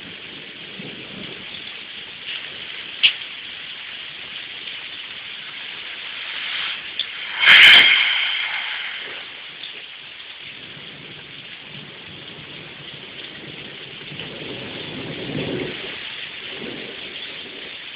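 Steady rain hissing, with a few sharp drip ticks. About seven and a half seconds in comes a sudden loud crack of thunder that fades over a couple of seconds, and low thunder rumbles in the second half.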